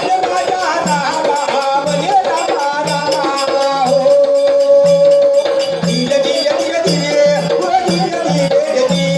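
Marathi kalgi shahiri folk music: a melody with a long held note a few seconds in, over a steady low drum beat and rattling percussion.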